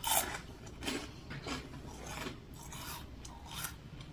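A person chewing food close to the microphone, a run of wet, crunchy chews about one every two-thirds of a second.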